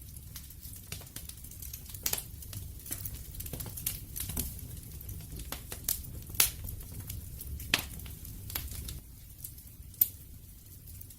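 Wood fire crackling: irregular sharp pops and snaps, a few louder ones, over a low steady rumble of the flames.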